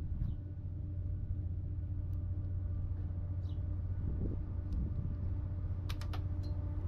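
A steady low engine-like hum, with a few short high chirps and a quick run of sharp clicks about six seconds in.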